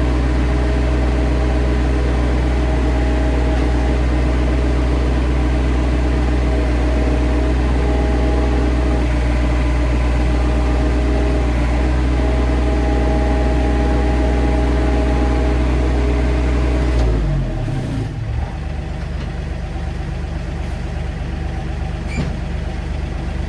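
Excavator engine running steadily at working speed, then throttled down to a lower idle about three-quarters of the way in.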